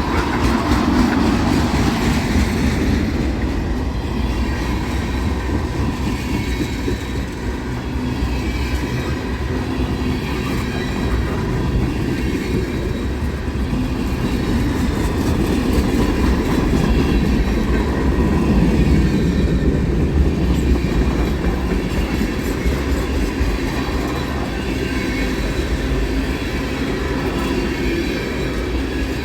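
CN freight train cars rolling past, a steady rumble with wheel-on-rail clatter over the joints.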